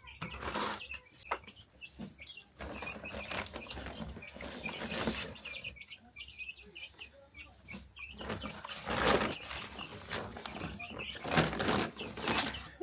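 Chickens with chicks, many short high peeps repeating throughout, with several louder bursts of rustling noise.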